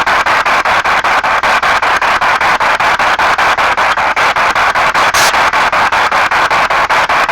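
P-SB7 spirit box sweeping through radio stations: loud radio static chopped by short gaps about five or six times a second as the tuner jumps between channels, with a brief sharper crackle about five seconds in.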